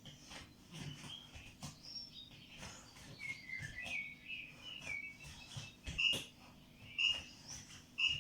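A bird chirping in short high calls: a quick run in the middle, then three louder chirps about a second apart near the end.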